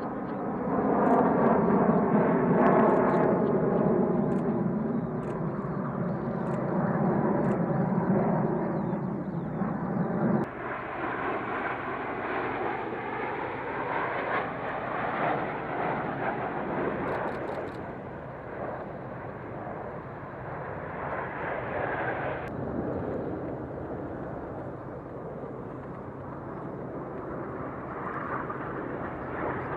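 Jet aircraft engine noise, loud at first with tones falling slowly in pitch as it passes, then a steadier roar that changes abruptly about ten seconds in and again about twenty-two seconds in.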